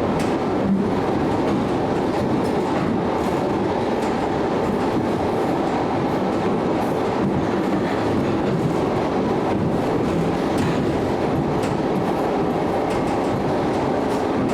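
ED9M electric multiple unit train running along the track: a steady rolling rumble of wheels on rail, with faint irregular clicks over rail joints.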